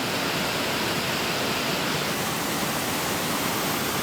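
Waterfall rushing steadily into a pool.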